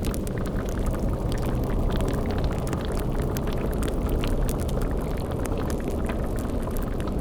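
Steady low rumble with dense bubbling and crackling, a boiling cauldron over a fire in a spooky ambience mix, with no single event standing out.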